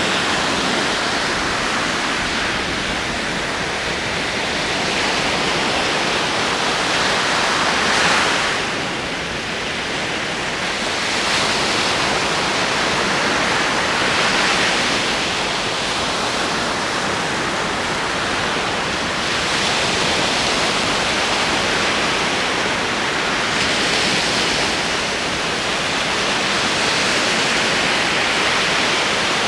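Ocean surf of rolling waves: a steady rushing wash that swells and eases every five or six seconds.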